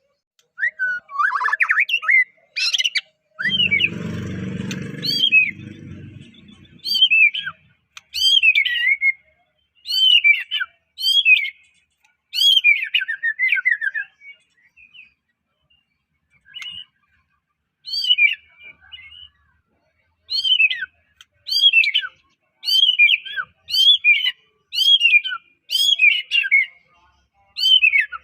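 White-rumped shama singing: phrase after phrase of short, clear whistled notes sliding down in pitch, with a brief pause about halfway through. A low rumbling noise runs under the song for a few seconds near the start.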